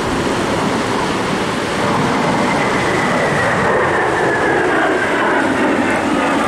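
Jet aircraft passing overhead: a steady engine roar with a high whine that slowly falls in pitch as it goes by.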